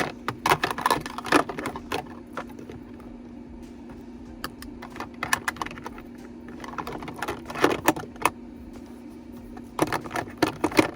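Small plastic makeup compacts and containers clicking and clattering as they are handled and set down while being sorted, in clusters of taps with short pauses between. A steady low hum runs underneath.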